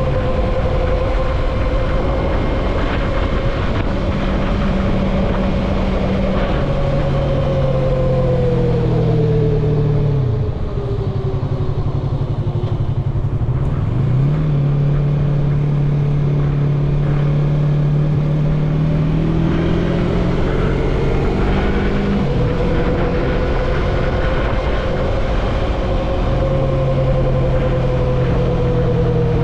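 Yamaha MT-03 motorcycle engine running at road speed under steady wind rush on the microphone. About ten seconds in the revs drop briefly, then climb again, and they rise once more a little past halfway.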